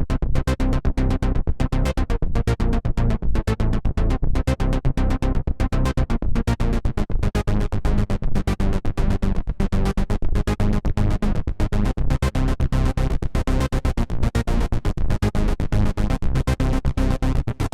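Arturia Pigments 3 software synthesizer preset playing a fast, rhythmic pulsing sequence over a heavy bass. It starts abruptly out of silence.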